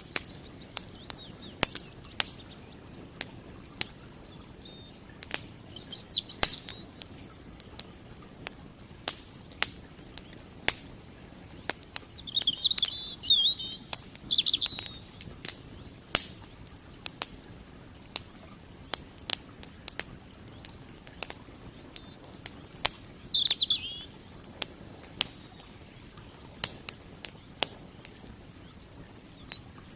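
Wood campfire crackling, with sharp pops coming irregularly throughout, over a faint steady rush of creek water. A small bird chirps briefly a few times.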